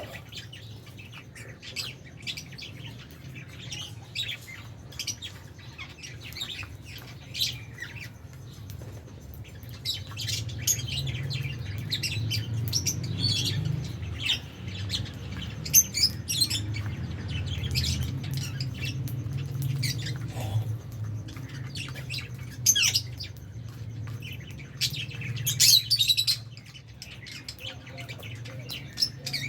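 A flock of lovebirds chirping and squawking in short, scattered high calls, some louder bursts of several calls together. A steady low hum sits underneath through the middle and latter part.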